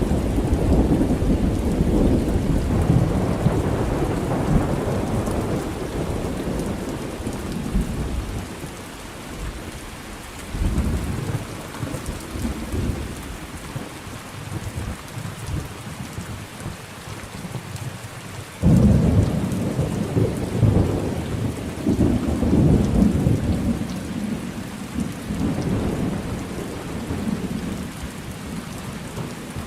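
Thunderstorm: steady rain with rolling thunder. A long rumble fades over the first several seconds, a shorter rumble comes about ten seconds in, and a sudden loud peal about two-thirds of the way through rolls on for several seconds.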